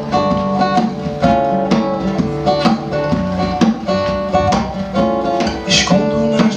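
Acoustic guitar strumming chords in a steady rhythm: an instrumental passage between sung lines of a slow song.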